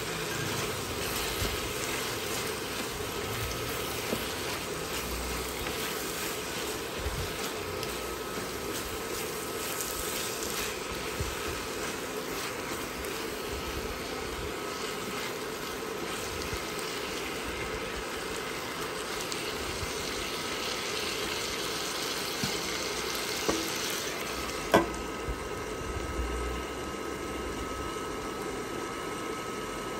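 Chayote and meat sizzling as they sauté in a wok, stirred with a spatula, over a steady faint hum. Near the end a glass lid clanks onto the wok, and after that the sizzle is muffled.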